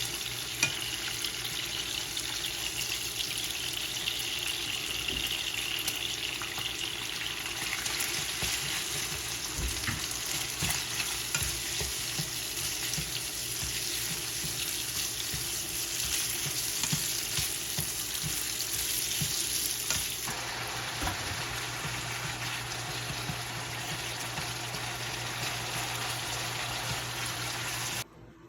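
Food sizzling and crackling in a hot pan, a steady hiss full of fine pops. It shifts slightly about two-thirds of the way through and cuts off abruptly near the end.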